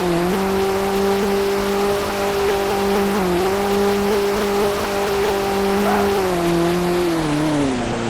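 A car engine running at a steady high pitch over tyre and road noise. Its pitch dips briefly twice, as at gear changes, then steps down over the last couple of seconds as it slows.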